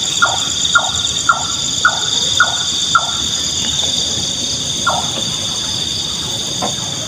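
Nightjar calling a run of short, evenly repeated notes, about two a second, breaking off about three seconds in, with one more note near five seconds. A steady, high-pitched insect chorus runs underneath.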